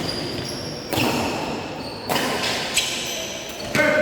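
Badminton play echoing in a large sports hall: sharp racket-on-shuttlecock hits about a second apart, each ringing on in the hall, with short high squeaks between them.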